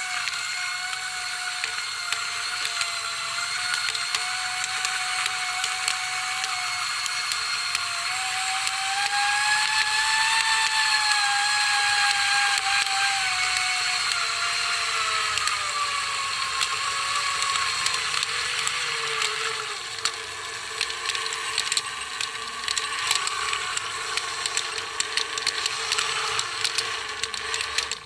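Small electric toy motor whining steadily. Its pitch rises a little near the middle, then sinks and fades as it slows, and fast irregular clicking and crackling takes over in the last third.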